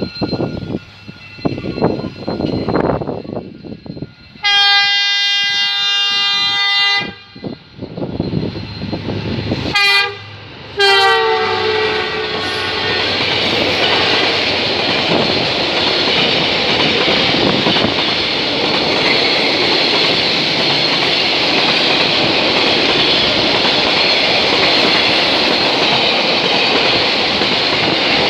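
A freight train's diesel locomotive approaching and sounding its horn: one long blast of about two and a half seconds, then two short blasts, the last falling in pitch as the locomotive passes. After that comes the steady rumble and clatter of the freight wagons rolling by.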